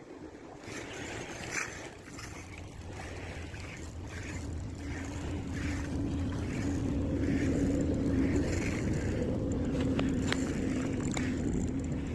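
A motor hums steadily and grows gradually louder, with faint swishes repeating about every half second or so.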